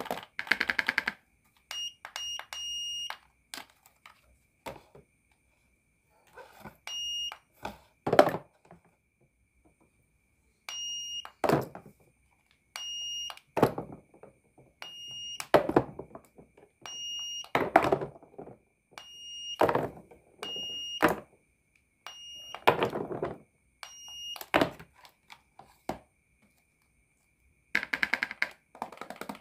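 Toy cash register giving short electronic beeps, often two or three in quick succession, as its keys are pressed and its toy scanner is used. Between the beeps come knocks and clatters of wooden play food pieces being handled and set down.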